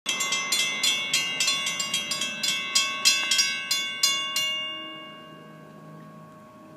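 Railroad grade-crossing bells, a WC Hayes bell among them, striking rapidly with uneven, overlapping strokes. They stop a little past four seconds in, and the ring fades away.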